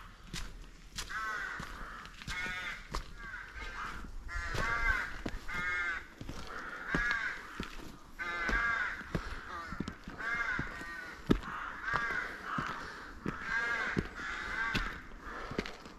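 Birds calling over and over, short pitched calls coming in quick runs one after another, with footsteps on the path and steps.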